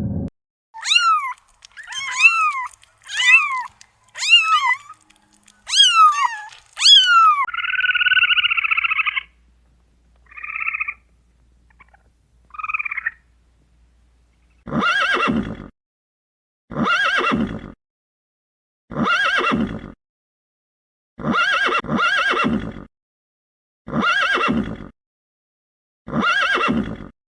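A series of farm animal calls from more than one kind of animal: six short high calls that rise and fall, then a longer buzzy call and two brief ones, then a run of rougher calls repeated about every two seconds.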